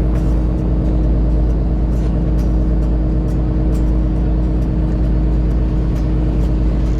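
Boat engine running steadily with a deep, even hum.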